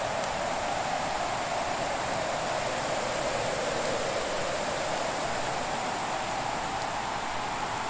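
Fireplace ambience: a steady rushing hiss with a few faint, sparse crackles.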